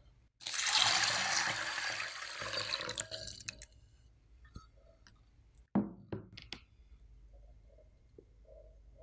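Water running or pouring into a bowl for about three seconds, then trailing off, followed by a few light clinks.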